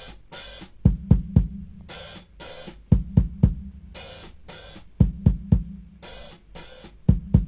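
Rock song's drum intro: a drum-kit pattern repeating about every two seconds, with bass-drum beats in quick threes and hissing cymbal or hi-hat strokes between them, over a low sustained bass tone.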